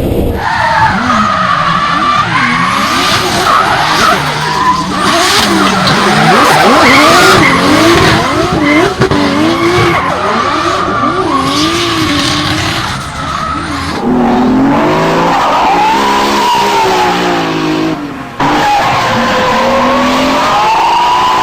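Toyota Supra Mk4's 2JZ straight-six engine revving up and down hard while drifting, with tyres squealing and skidding.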